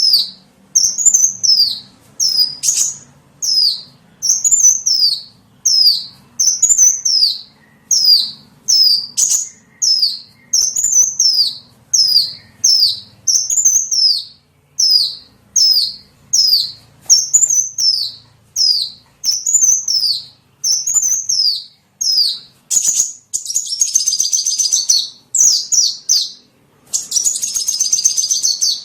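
Small songbird's lure call: short, high chirps repeated evenly, roughly one every three-quarters of a second, breaking into a fast, continuous twittering trill from a little after the 22-second mark.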